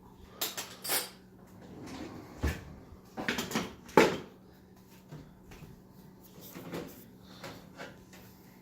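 Kitchen cupboard doors and dishes knocking and clattering while a dishwasher is unloaded: a quick run of knocks, the loudest about four seconds in, then a few lighter ones.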